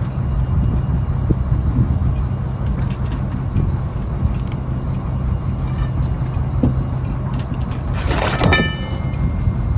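Fishing trawler's diesel engine running steadily with a low drone. About eight seconds in there is a short, sharp clang that rings briefly.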